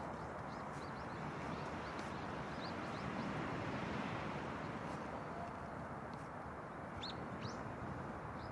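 Sea surf washing onto a sandy beach as a steady rush, with small birds chirping high and thin over it and a few quick rising calls about seven seconds in.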